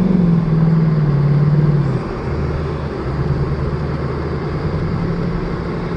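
2018 Mustang GT's 5.0-litre V8 revving under heavy throttle while trying to climb a snowy hill with the tyres slipping. About two seconds in, the revs drop and it settles to a lower, steady drone.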